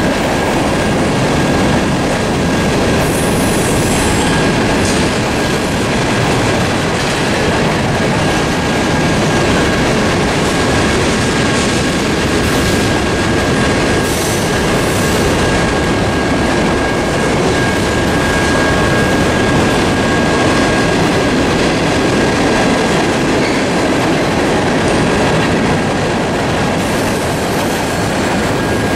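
Norfolk Southern mixed freight train cars rolling steadily past at a crossing: a constant heavy rumble and clatter of steel wheels on the rails. A thin, steady high-pitched wheel squeal runs through it.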